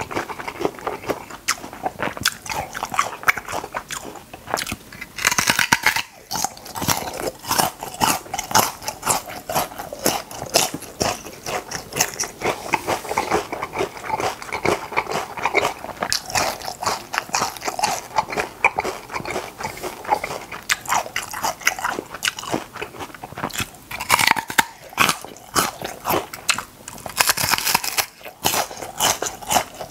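Close-up crunching and chewing of crisp food: a steady run of crisp bites and chews, with louder bursts of crunching about five seconds in, near the three-quarter mark and near the end.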